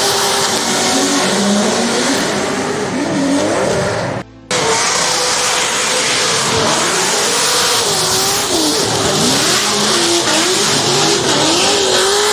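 Drift cars on track: engines revving hard with tyres squealing, loud and continuous, with a short break about four seconds in.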